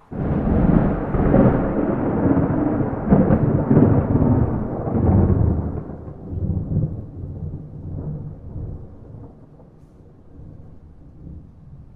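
Thunder without rain: a clap starts abruptly, crackling and rumbling loudly for about six seconds, then rolls off into a low rumble that slowly fades.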